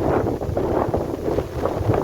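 Strong storm wind buffeting the microphone in uneven gusts.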